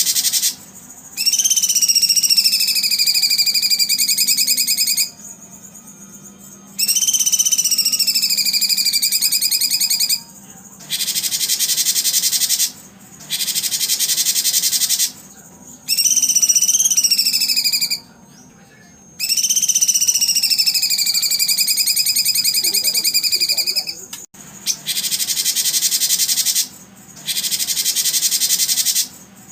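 A high, rasping insect buzz that switches on and off in blocks of about two seconds, with four drawn-out whistled bird calls over it, each sliding down in pitch and then holding steady.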